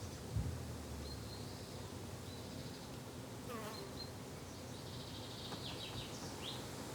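Summer garden ambience: an insect buzzing with a steady low drone, while small birds chirp now and then, with a cluster of quick chirps near the end. A soft thump comes just after the start.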